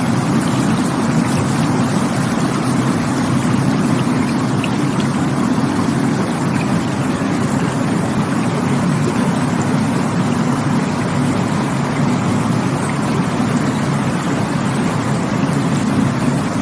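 Rushing water, a steady unbroken rush heaviest in the low range.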